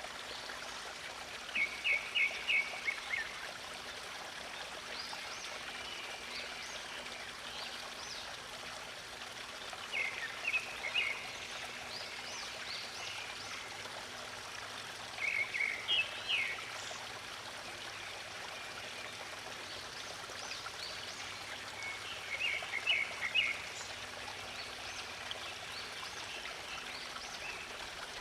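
Steadily flowing stream water, with a songbird singing four short bursts of rapid chirped notes several seconds apart and fainter, higher chirps in between.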